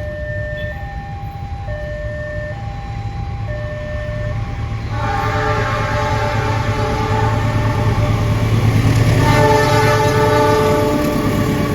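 Level-crossing warning alarm alternating between two tones about once a second. From about five seconds in, an approaching train sounds a long horn over its growing rumble, the horn chord shifting in pitch a little after nine seconds as the train passes at speed.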